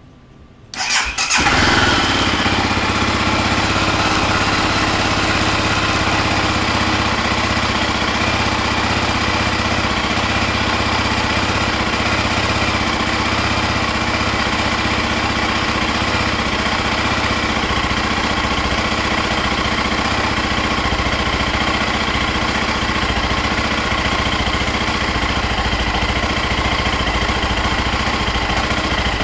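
BMW G650 Xchallenge motorcycle's single-cylinder engine started from cold: it catches about a second in and then runs steadily.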